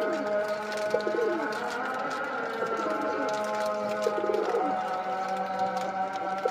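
Domestic pigeons cooing, short falling coos repeated about every second or two, over a background of steady held tones.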